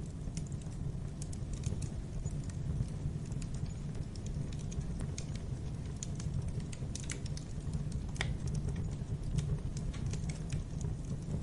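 Wood fire burning in a fireplace: a steady low rumble of flames with irregular crackles and small pops from the logs.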